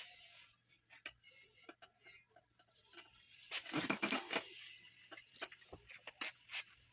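Scattered clicks and a louder stretch of rustling and crunching about three and a half seconds in, from plastic stand fan parts being handled during reassembly, over a faint steady low hum.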